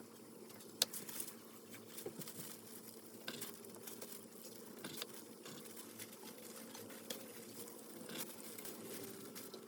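Light clicks and taps at irregular moments, the sharpest about a second in, over a steady low hum.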